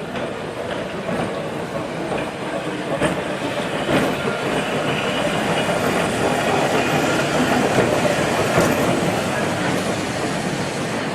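Vintage electric tram running along its rails: a steady wheel-and-track noise with a few faint clicks.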